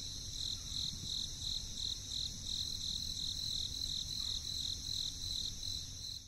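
Insects chirping in a steady, even pulsing trill of about four pulses a second, over a faint low rumble; it cuts off near the end.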